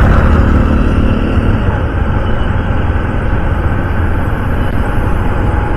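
Riding on a Honda CD 110 motorcycle: steady wind rushing over the microphone, with the bike's running engine and surrounding traffic noise beneath it.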